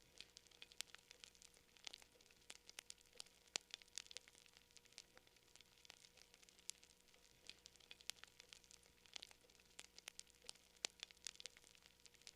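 Campfire crackling: burning wood giving irregular sharp pops and snaps, often several a second, over a faint hiss.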